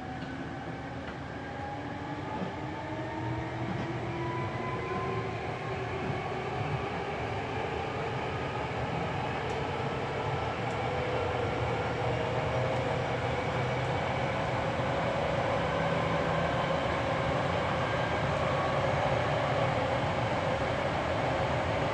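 Hankyu 7300 series field-chopper electric train running from inside the car: wheels and track rumble under a whine that rises slowly in pitch, growing louder as the train gathers speed.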